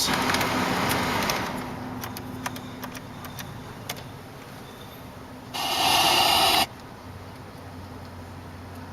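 Car power accessories worked on jump-box power: an electric motor whirs for about a second and a half, then stops, followed by scattered clicks and a loud, harsh burst lasting about a second.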